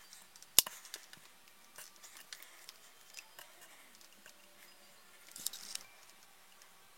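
Small plastic and metal parts of RC car shock absorbers being handled and fitted, giving scattered light clicks and ticks. There is one sharp click about half a second in and a quick cluster of rattling ticks around five and a half seconds.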